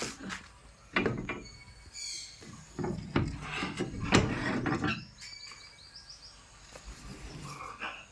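Pet parrot chirping in short high calls, including a quick run of notes about halfway through, with knocking and rustling sounds loudest in the middle.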